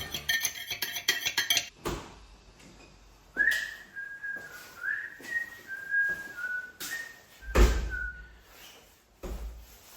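A person whistling a short tune of about eight notes, some sliding in pitch. A few dull thumps fall in between, the loudest about three-quarters of the way through.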